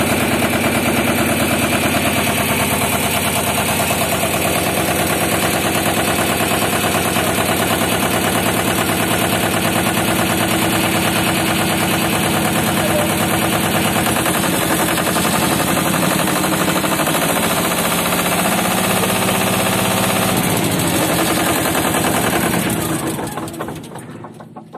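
Road roller's diesel engine running, a dense rapid beat of firing strokes with its pitch shifting a little about halfway through; near the end the engine stops and its sound dies away over a second or two.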